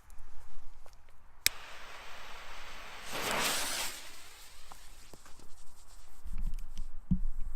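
A sharp click, then a hiss lasting about a second as the fuse of a Cipolla firecracker burns, followed by rustling and a few soft low thumps.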